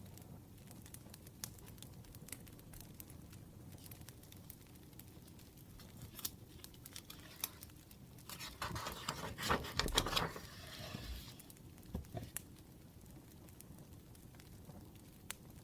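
Wood fire crackling faintly, with scattered small pops, and a rustling burst lasting about two seconds a little past halfway through.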